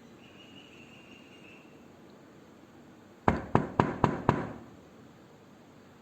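Knocking on a door: five quick, sharp raps in a row, about four a second, lasting about a second, starting about three seconds in.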